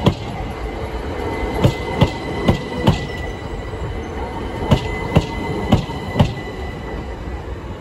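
Southern passenger train passing close by, its wheels clacking over the rail joints in pairs of sharp knocks about half a second apart, over a steady rolling rumble. A faint steady high tone fades out about halfway through.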